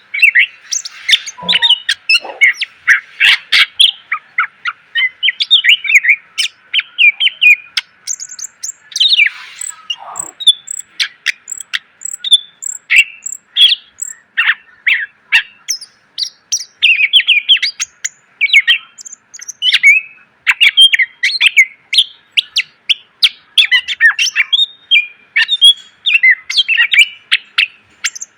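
Green leafbird (cucak ijo) in full song: a fast, unbroken stream of varied chirps, trills and whistled notes, the mixed phrases kept birds are trained on. A faint steady hum runs beneath.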